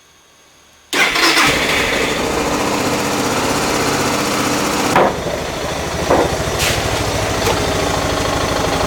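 Suzuki DR650's single-cylinder engine running, coming in suddenly about a second in, with a few brief louder moments around the middle; the engine is cold and being warmed up.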